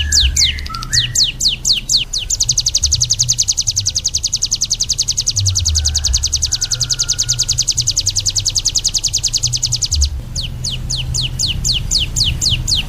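Small songbird singing: a string of quick high notes that each slide downward, about six a second, switching about two seconds in to a rapid even trill held for some eight seconds, then back to the sliding notes near the end.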